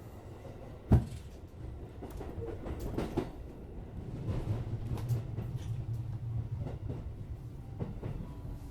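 JR West 205 series electric train running, heard from inside the front car: a steady low rumble with clicks of the wheels over rail joints. There is a sharp knock about a second in, and a low hum grows stronger from about four seconds in.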